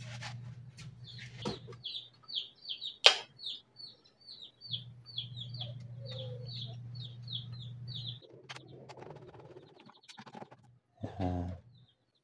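A bird calls in a quick run of short, high, falling chirps, about three a second, for some six seconds over a low steady hum. Sharp clicks and knocks of stove parts being handled come through as well, the loudest about three seconds in.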